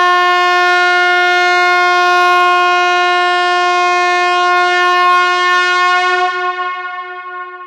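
Steady, loud sound-check test tone for the "high frequency" check: one held pitch with many overtones, starting to fade about six seconds in.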